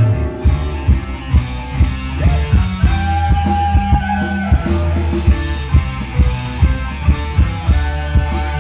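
Music played loud through a large sound system, with heavy bass and a steady beat of about two thumps a second under a guitar-like melody.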